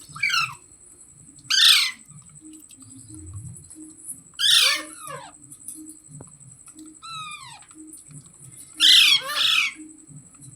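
Pet green parrot squawking in short, loud calls that slide down in pitch, about five of them with gaps of one to three seconds, the last one doubled.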